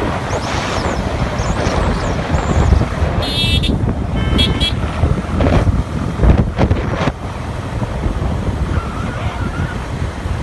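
Wind rushing over the microphone with a steady low rumble of travel, broken by two short high-pitched tones a little after three and four seconds in.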